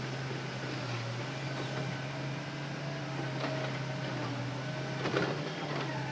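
Hitachi Zaxis excavator running steadily with a constant low hum and a faint whine, and a short knock about five seconds in.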